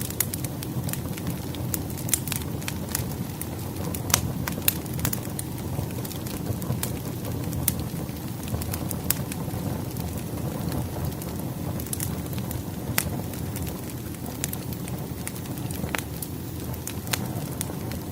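Wood fire burning steadily, with a low rumble and frequent irregular crackles and pops.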